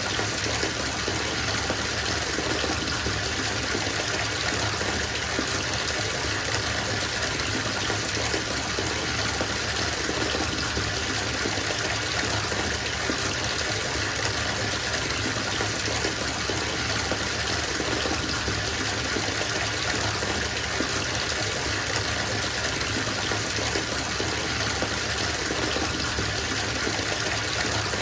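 Bathtub filling: water pouring steadily from the tap into the tub with an even, unbroken rush.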